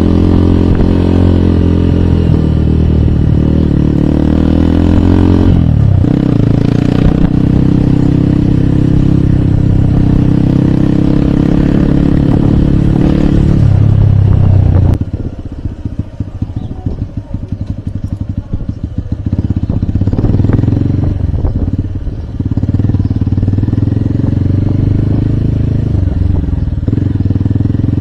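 Hero Hunk's 150 cc single-cylinder four-stroke engine running under throttle on the move, its pitch dipping and recovering about 6 s in. About 14 s in it revs up, then drops off suddenly as the throttle closes, leaving a quieter run of separate exhaust pulses while it slows, before pulling hard again about 22 s in.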